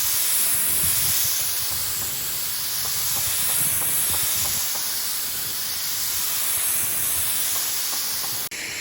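A steady, loud hiss of air or spray, swelling and easing about every second and a half, that cuts off abruptly just before the end.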